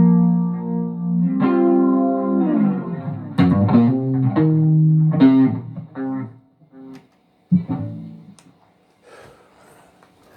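Guitar played through an effects unit, with notes that slide down in pitch, dying away about six seconds in. One more short note follows about a second and a half later.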